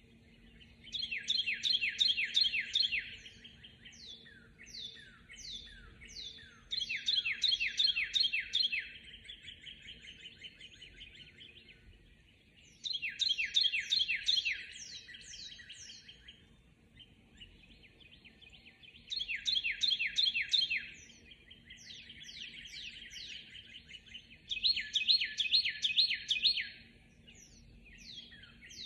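Dawn chorus of songbirds: a loud song phrase of fast repeated notes comes about every six seconds, five times in all, with quieter chirps and short falling notes from other birds in between.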